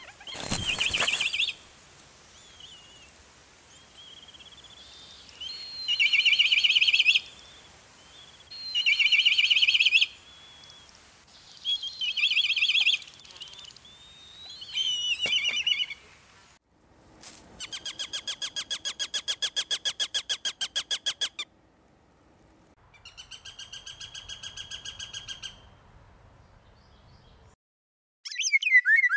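Forest birds calling and singing. Short high trilled song phrases come roughly every three seconds. Past the middle they give way to a fast, evenly pulsed rattle lasting about four seconds, then a shorter, fainter rattle and a brief call near the end.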